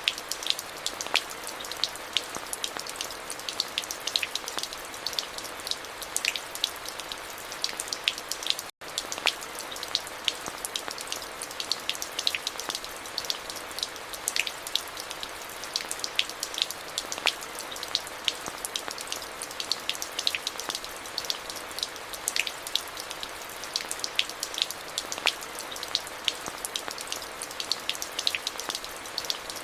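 Steady rain falling, with many sharp individual drop hits over an even hiss. The sound cuts out for a moment about nine seconds in.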